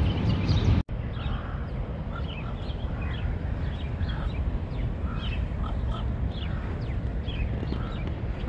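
Birds chirping in short calls, several a second, over a steady low rumble. The sound breaks off briefly about a second in, where the scene changes.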